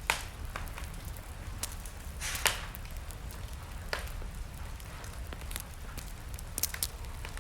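Wood fire burning in a fireplace: a steady low rumble of flame with sharp, irregular crackles and pops of burning logs, the loudest a bit after the start and about two and a half seconds in, with a quick run of pops near the end.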